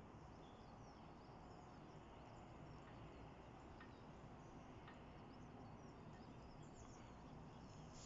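Faint outdoor background with distant small birds chirping now and then, short high notes scattered through a low steady rumble.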